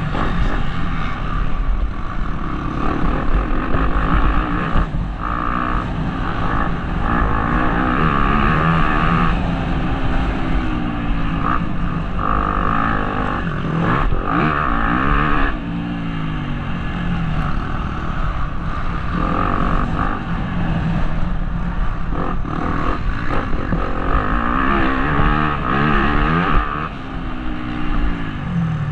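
Motocross bike engine heard from the rider's helmet, revving hard and dropping back over and over as the bike accelerates, shifts and backs off around the track.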